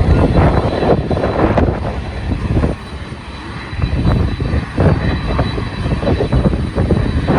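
Jet airliner engine noise mixed with strong wind buffeting the microphone in uneven gusts, easing briefly near the middle.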